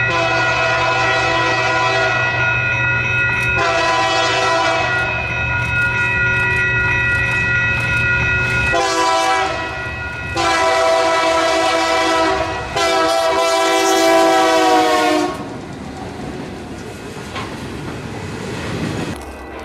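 Freight locomotive's air horn, a chord of several notes, sounding a grade-crossing signal as the train approaches: long blasts, a short one about nine seconds in, then a final long one. About fifteen seconds in the horn stops and the train rolls past, the wheels of covered hopper cars clattering and rumbling on the rails.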